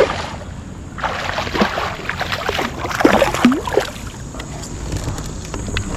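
Water splashing and sloshing at a kayak, with a cluster of splashes between about one and four seconds in over a steady low rumble.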